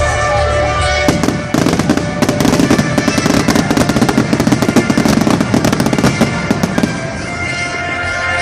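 Fireworks going off in a rapid, dense barrage of bangs and crackles for about six seconds, starting about a second in, over music.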